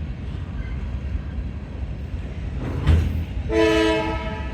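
Diesel locomotive air horn on a passing freight train sounding one short blast about three and a half seconds in, over the steady low rumble of the train. There is a single thud just before the horn.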